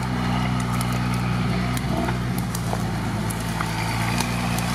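Off-road SUV's engine running at low, steady revs as it crawls away through tall grass and brush.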